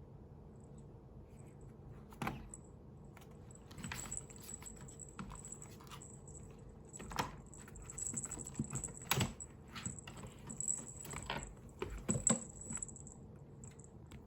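Computer keyboard keys clicking in irregular, scattered clusters, as a kitten on the keyboard presses them at random. A few clicks stand out louder.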